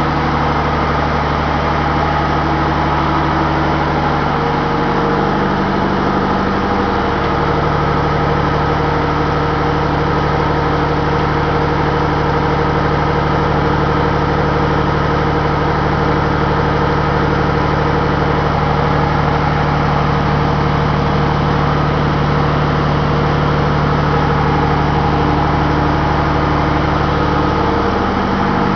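Steady din of running machinery in a ship's engine room, diesel engines and generators, with several constant hum tones over a noisy background. A deep hum drops away about four or five seconds in, and the rest runs on unchanged.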